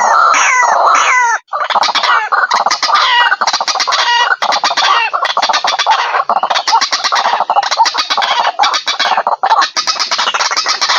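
White-breasted waterhen (ruak-ruak) calling loudly. A few falling notes come first; after a brief break about a second and a half in, there are long runs of rapid, harsh repeated notes with short pauses between them.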